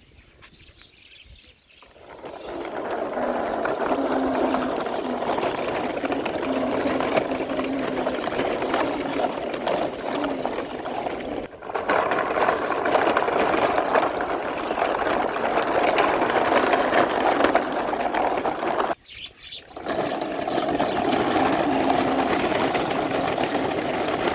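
Toy monster truck's small motor running steadily with a rattling whir as the truck drives off, starting about two seconds in and cutting out briefly twice.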